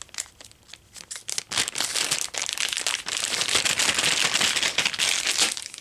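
Packaging crinkling and rustling as a part is taken out of it: scattered crackles at first, then a steady dense crinkle from about a second and a half in until near the end.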